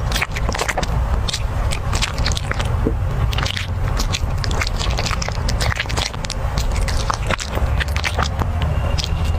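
Dog chewing food close to the microphone: many sharp, irregular crunches, several a second, over a steady low rumble.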